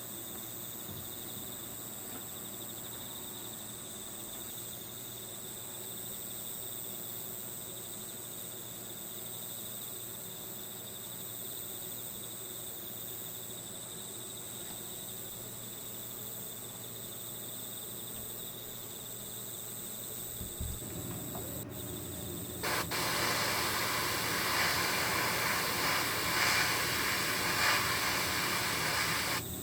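Crickets chirring steadily. About three-quarters of the way through, a loud steady hiss starts, holds for several seconds and cuts off just before the end.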